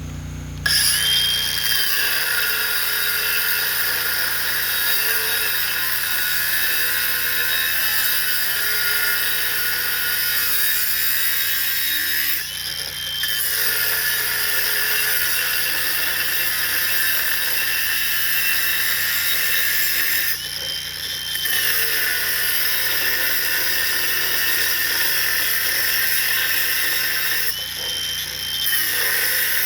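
Power tool cutting steel pipe: a steady, loud, high-pitched grinding hiss that eases off briefly three times, letting a thin steady whine come through each time.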